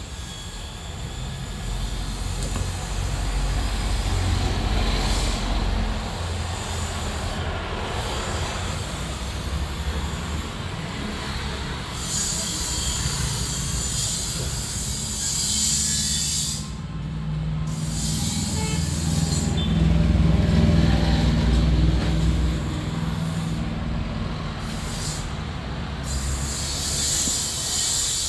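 Vehicle noise: a steady low rumble with hissing that comes and goes.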